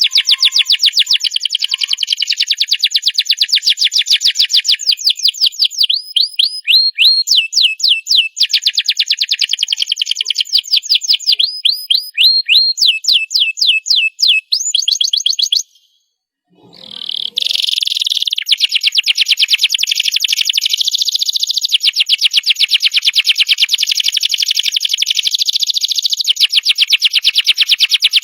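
Domestic canary singing a long, fast song of high rapid trills and runs of repeated notes. It breaks off briefly a little past halfway, then resumes with one long unbroken trill.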